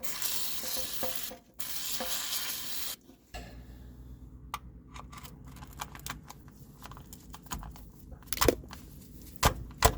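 Aerosol can of WD-40 sprayed in two bursts of about a second and a half each, onto the truck's front differential. Light clicks and a few sharp metal knocks follow.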